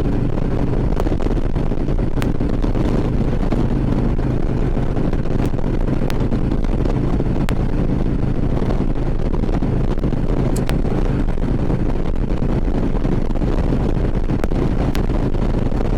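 Harley-Davidson Ultra Classic Limited V-twin engine running steadily at cruising speed, with wind rushing over the helmet-mounted microphone.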